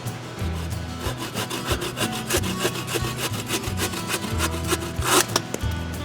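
A hand saw cutting through wood in quick, rhythmic back-and-forth strokes, starting about a second in, over background music.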